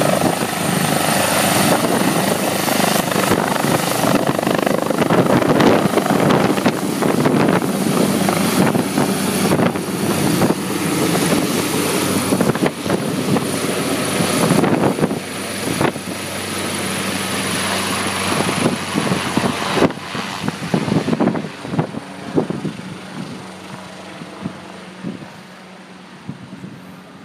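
Helicopter running loud and steady, then growing fainter over the last several seconds.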